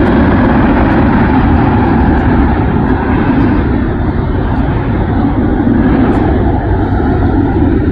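Jet airliner engine noise: a loud, steady rush that eases slightly over the last few seconds.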